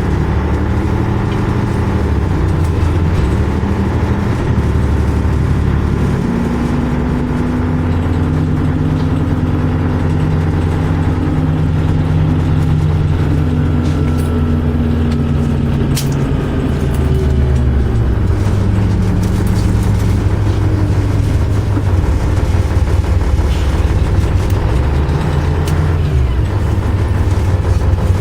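MAZ-104 city bus engine running under way, its low drone shifting in pitch in steps several times as the bus speeds up and slows.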